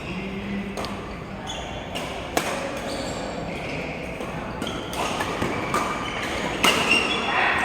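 Sharp knocks and short high squeaks on an indoor sports court, with faint voices in the background.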